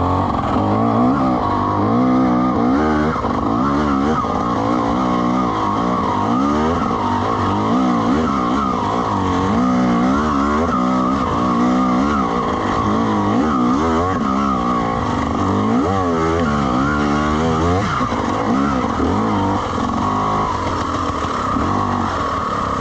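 Dirt bike engine revving up and down over and over while the bike is ridden, its pitch rising and falling every second or two.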